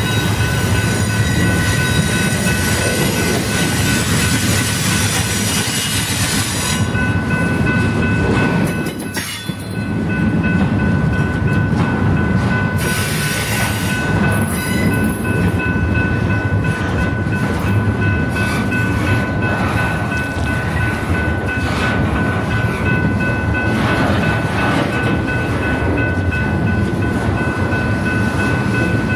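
BNSF freight train rolling past, its cars rumbling steadily on the rails, with a steady high tone running through it.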